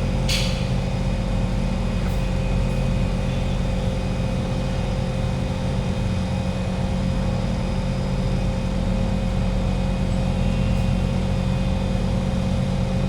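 Steady hum and low rumble inside a Kawasaki Heavy Industries C151 metro train car, with several constant tones from its onboard electrical equipment and a single click at the start.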